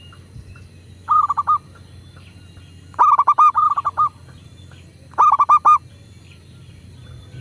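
Zebra dove (perkutut) cooing: three bursts of rapid, evenly spaced notes, the middle one the longest.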